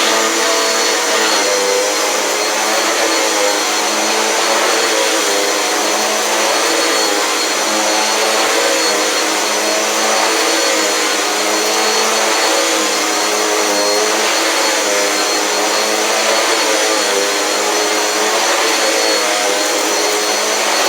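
Dirt Devil Power Max XL vacuum cleaner running steadily, its motor pitch wavering slightly.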